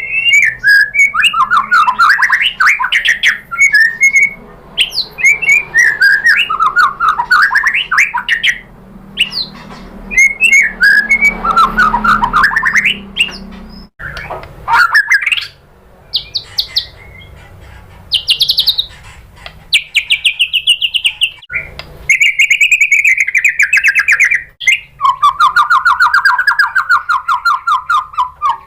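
White-rumped shama (murai batu) singing loud, fast trilled phrases that sweep up and down. After an abrupt break about halfway, it gives rapid runs of higher pulsed notes, and near the end a lower buzzy rattle.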